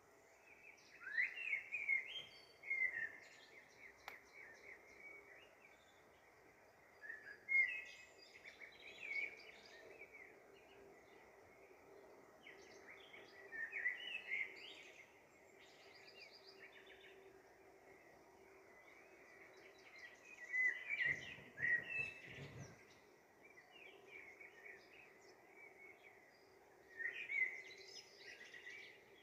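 Small birds chirping in short bursts of quick rising and falling notes every several seconds, over a faint steady hum.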